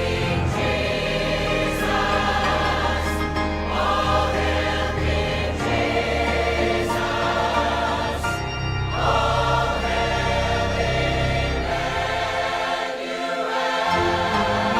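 Choir singing a slow worship song with instrumental accompaniment, the voices holding long sustained notes over a steady low bass.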